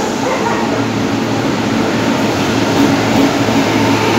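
WAP-7 electric locomotive hauling a passenger train into a station, passing close by: rolling wheel and rail noise with a steady hum from the locomotive, growing louder near the end as it draws level.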